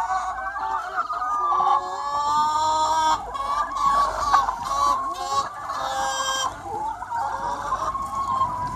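A large free-range flock of chickens clucking and calling over one another in a continuous, overlapping chorus, with a few louder, higher-pitched calls standing out about two seconds in and again around six seconds.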